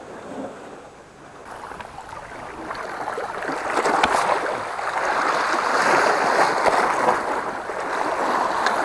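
Sea water surging and washing against the shore rocks, building up over the first few seconds into a sustained rush.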